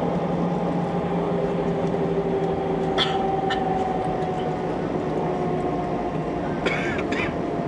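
Airbus A320 jet engines running with a steady hum and a whine that slowly falls in pitch, with a few short sharp sounds about three seconds in and again near the end.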